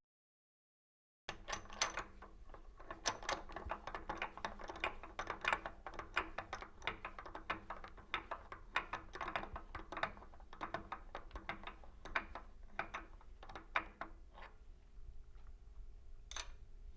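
Quick, irregular light clicks and taps, several a second, of metal being handled in a milling machine vise as it is cleared of chips. They die away about fourteen seconds in, leaving a faint steady hum.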